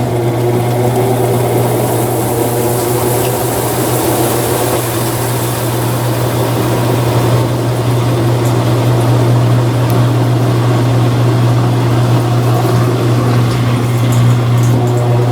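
Mueller Energy top-load washing machine's drain pump running, a steady low hum with water gurgling through as the tub is pumped out.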